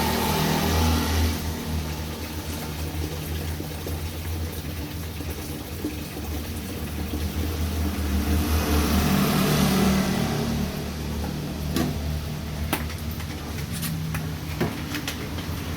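Rain falling steadily, swelling louder twice, over a constant low hum, with a few sharp clicks near the end.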